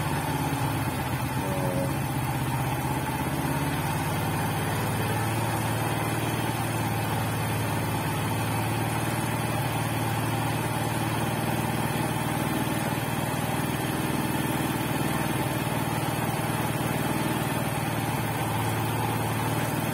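Honda XRM 125's single-cylinder four-stroke engine idling steadily on a newly fitted replacement carburetor, while its idle and air-mixture screws are being adjusted to tune it.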